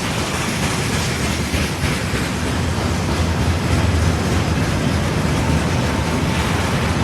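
Freight train hauled by a 2ES10 'Granit' electric locomotive passing close by: a steady, loud rumble of wheels rolling on the rails.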